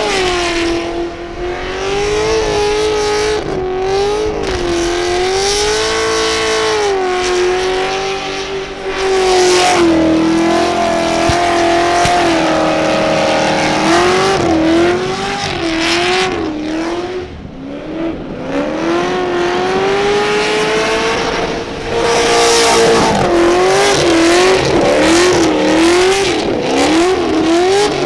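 Holden Commodore ute's engine held at high revs in a burnout, over the roar of spinning tyres. The pitch wavers up and down as the throttle is worked, with quick repeated rev swings about halfway through and again near the end.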